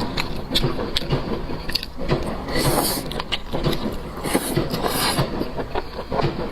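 Rubbing and scraping with many small clicks and knocks, and three short hissing bursts about two and a half, four and five seconds in.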